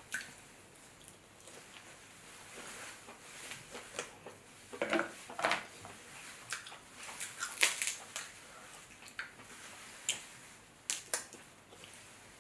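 Crab shells cracking and snapping as they are broken open, with crunching and chewing sounds. The cracks come irregularly, in a busier cluster in the middle and two sharp snaps near the end.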